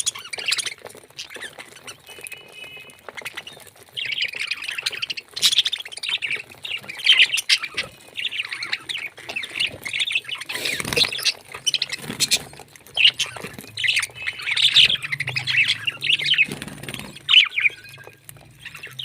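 Parrot chattering and squawking in runs of short, rapid calls, with scattered clicks among them.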